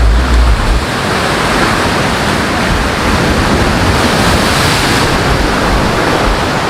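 Loud, steady rush of wind and sea surf, with low wind buffeting on the microphone in the first second.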